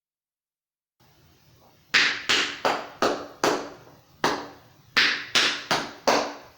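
Tap shoes' metal taps striking a hard floor in a series of sharp clicks with a short ring after each: five quick taps, a single tap after a brief pause, then four more.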